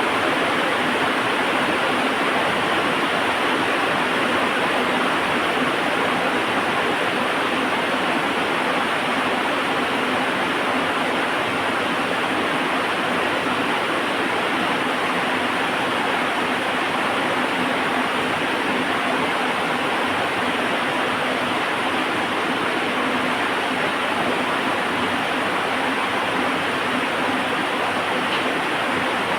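Heavy rain falling steadily, an even, unbroken rush with no distinct crackles or thunderclaps.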